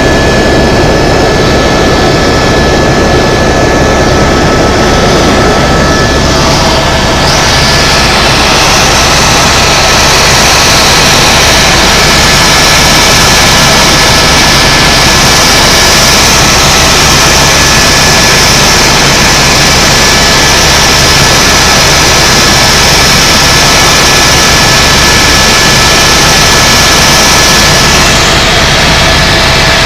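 Tour helicopter's turbine and rotor noise heard from inside the cabin: a loud, steady drone with a thin high whine. A hiss rises about seven seconds in and falls away near the end.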